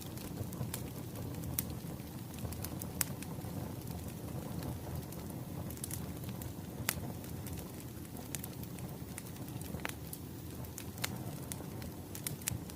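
Wood fire crackling: a steady low rumble with sharp pops and snaps scattered irregularly.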